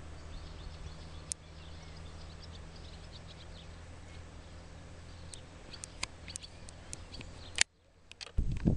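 Faint chirping of small birds over a steady low hum, with several sharp clicks in the last few seconds. Near the end the sound cuts out briefly and a louder, uneven low rumble begins.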